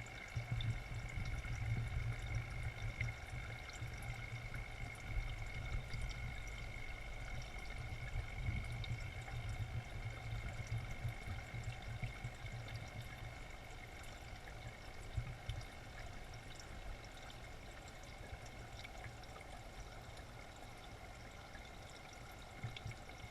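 Water steadily pouring and trickling into an aquaponics fish tank, over a faint steady high whine. A low, uneven rumble runs under it for most of the first part, then eases off.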